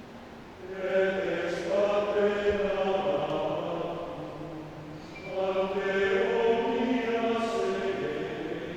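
Men's choir singing unaccompanied in sustained chords: two phrases, each swelling in and then slowly fading.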